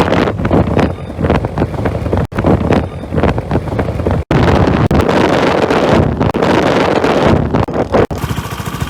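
Wind buffeting the microphone on a moving Suzuki Skydrive 125 scooter, with road and engine noise underneath. The sound drops out sharply a few times, and near the end gives way to a quieter, steadier engine drone.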